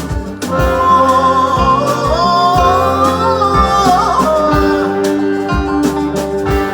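Live acoustic music: plucked guitar with low beats under it, and a long, wavering high melody line held over it for a few seconds in the middle.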